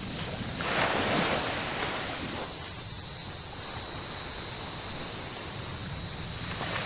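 Ocean surf on a tropical beach: a wave breaks and washes in about a second in, then settles to a softer steady hiss of water.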